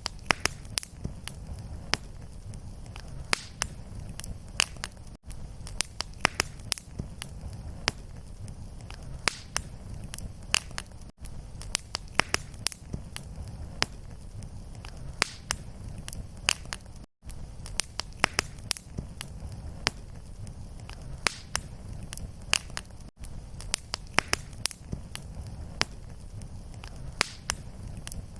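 Fire in a fireplace crackling steadily, with frequent sharp pops over a low, even rumble. The sound cuts out for an instant about every six seconds.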